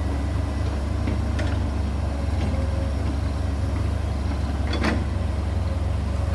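Excavator's heavy diesel engine running with a steady low drone, with a short metallic clank about a second and a half in and a sharper one near five seconds.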